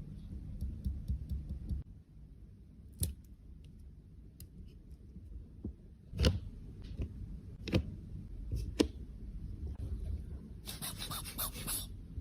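Small sharp clicks and taps of makeup tools and cosmetic cases being handled, with a short dry scratching or cutting burst about eleven seconds in, over a low steady hum.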